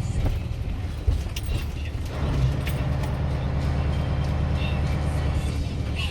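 Scania DS14 14-litre V8 turbo diesel running under way, heard from inside the cab. The engine note eases off, there is a single knock about a second in, and the note picks up again about two seconds in.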